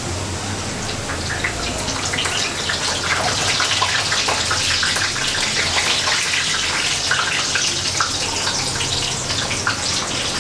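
Potato-and-egg snack frying in hot oil in a pan just after being turned over: a steady sizzle full of fine crackles, growing busier a few seconds in.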